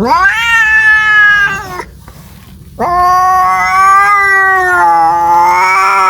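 Domestic cat caterwauling: two long, drawn-out yowls. The first rises quickly, holds and drops off after nearly two seconds. The second begins about a second later and wavers up and down as it carries on. It is the yowling of a cat calling for a mate.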